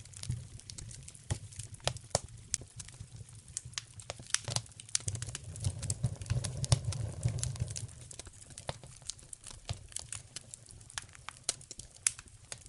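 Wood fire in a fireplace crackling, with many irregular sharp pops over a low rumble of flames that swells about halfway through.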